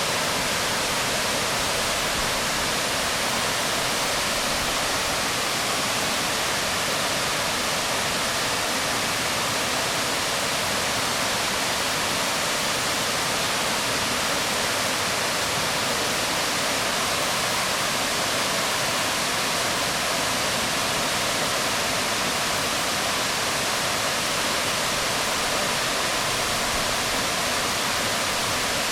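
Waterfall water falling onto rocks, a steady even rush of splashing water with no breaks.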